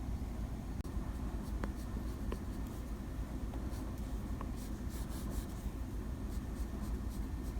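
Drawing strokes scratching across a drawing surface, coming as a quick run of short strokes in the second half, over a steady low hum.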